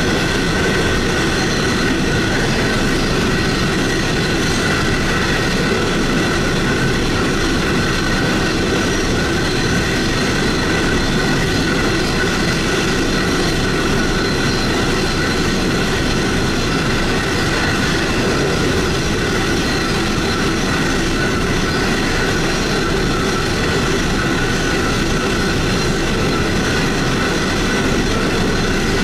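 Ore cars of a long heavy-haul ore train rolling past at close range: a steady rumble of wheels on rail, with a thin, steady high squeal above it.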